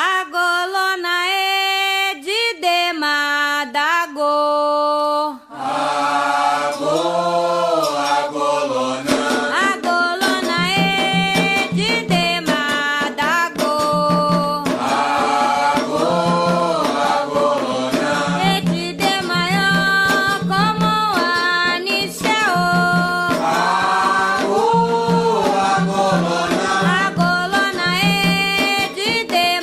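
Candomblé ritual chants for Xangô sung in Yoruba: one voice leads at first, then a group of singers joins with drums keeping a steady beat from about five seconds in.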